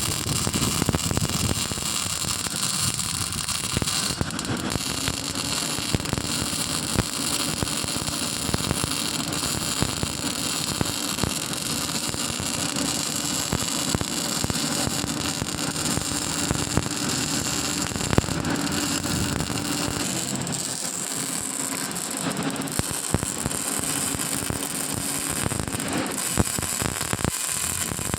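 MIG welding arc crackling and sizzling steadily as a bead is laid, a dense run of fine snaps, with a faint steady hum underneath for much of it.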